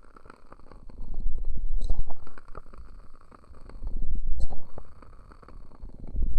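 Hands cupping and pressing over the ears of a binaural dummy-head microphone, giving muffled low rumbles that swell and fade three times, with small crackles in between.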